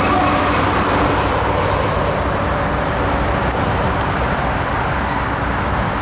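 GO Transit commuter train pulling away, its steady rumble slowly fading as it recedes, with a brief high-pitched sound about three and a half seconds in.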